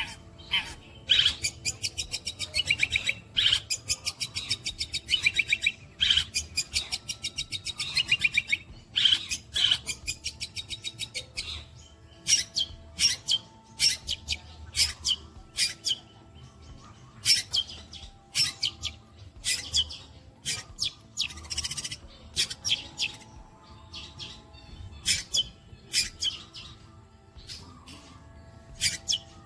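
Long-tailed shrike (cendet) singing its mimicry song: fast rattling runs of sharp, high chattering notes, then single sharp calls and short bursts.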